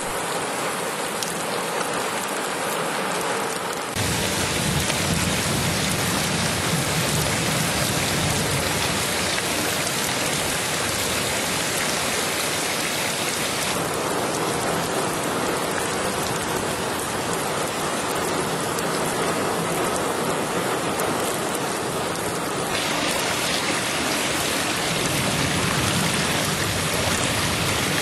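Heavy rain falling, a steady hiss of water that changes abruptly in tone three times.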